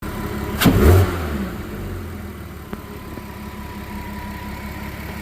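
2008 Porsche Cayenne engine starting: a brief crank, then it catches with a loud rev flare about half a second in and settles into a steady idle. It is a clean start after the blown injector fuse and faulty aftermarket ignition coils were replaced.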